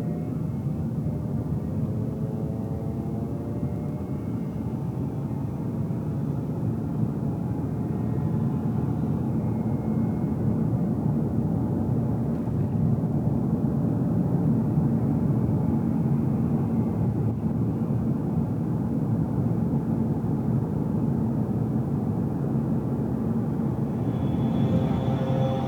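Car cabin driving noise: engine hum and tyre road noise as a steady low rumble, growing slowly louder, with a faint higher whine joining near the end.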